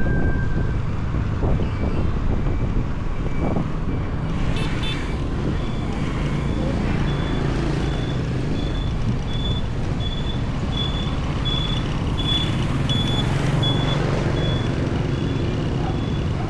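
Motorbike riding along a highway, with steady engine, wind and road rumble. A short, high electronic beep starts repeating about four seconds in, a little more than once a second, and runs on.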